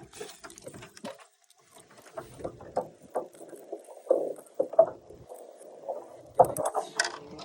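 Irregular knocks and clatters of gear being handled in an aluminium jon boat, with a few sharper clicks near the end.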